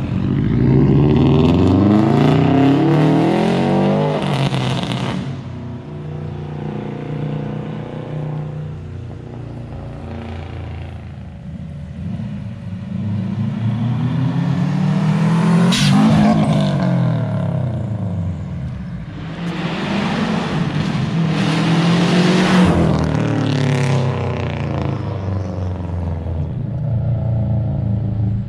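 Subaru WRX turbocharged flat-four engine exhaust revving and pulling, its pitch climbing and dropping again several times. The loudest peak comes about two-thirds of the way through.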